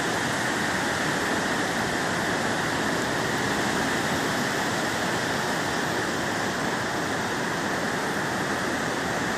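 Steady rush of ocean surf on a sandy beach, an even, unbroken noise with no single wave standing out.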